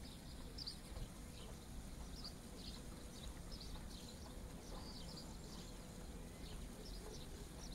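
Small birds chirping faintly, scattered short high chirps every second or so, over a low steady rumble.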